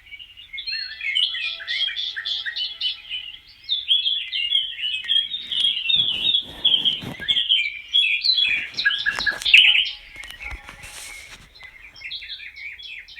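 Several small birds chirping and twittering in quick, overlapping high notes, with a few sharp clicks or rustles in the middle.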